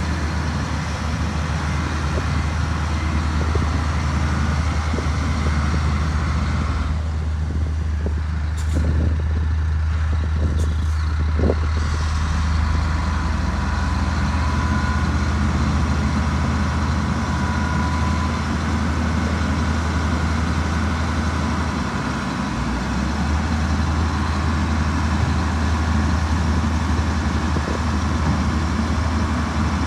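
Heavy diesel earthmoving machinery running steadily with a deep, even drone. About seven seconds in the higher sounds drop away for several seconds, leaving mainly the low drone and a few clicks.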